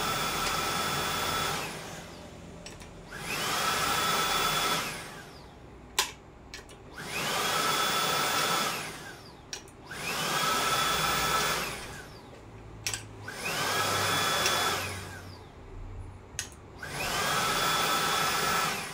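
Xiaomi cordless upright vacuum cleaner's motor switched on and off repeatedly with its trigger. About five times it spins up with a rising whine, runs steadily for a second or two, then winds down. Sharp clicks come in the gaps between runs.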